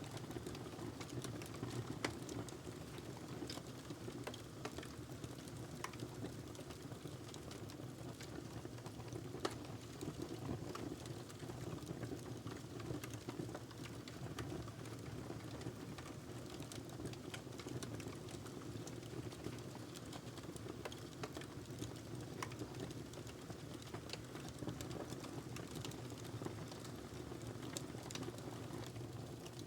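Wood fire crackling in a fireplace: a steady low rush of burning with irregular sharp pops and snaps throughout, a few of them louder.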